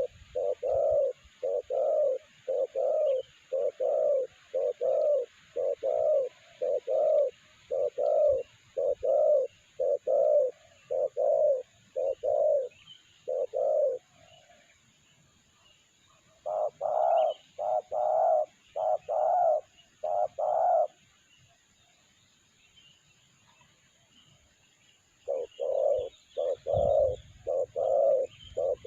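Spotted dove cooing in long runs of short, evenly spaced notes, about two a second. There is a pause partway through, then a slightly higher, brighter run of coos, then a pause before the cooing resumes near the end.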